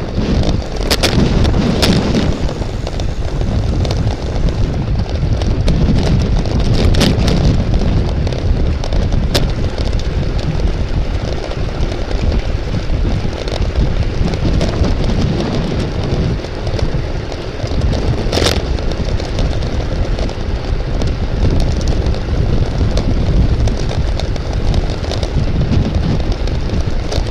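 Heavy wind rumble on the microphone, steady throughout, with a few sharp clicks: two about a second apart near the start, then more at about seven, nine and eighteen seconds in.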